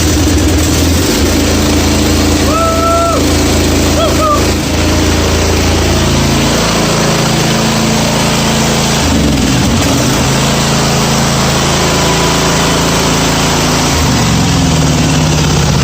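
A Toro TimeCutter zero-turn mower's engine running just after a cold start in freezing weather; its speed shifts a few times. A couple of short whistling tones sound in the first few seconds.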